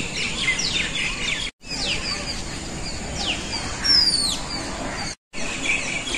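Several small birds chirping in the trees: many quick, high calls sliding downward, with one louder falling whistle about four seconds in. The sound drops out completely for a moment twice, at cuts between shots.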